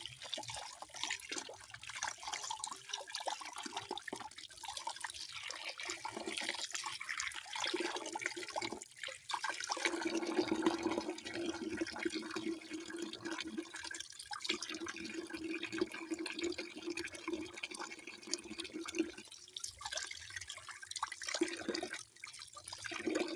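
Running water splashing and pouring, joined by a steady low tone from about eight seconds in that drops out briefly twice.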